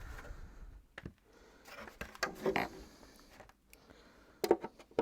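Faint clicks and rustling of plastic vacuum-cleaner parts being handled during a stripdown, with a few sharper clicks near the end.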